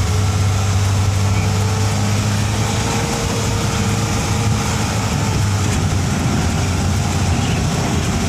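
A vehicle engine running steadily with a constant low hum, under an even rush of wind noise.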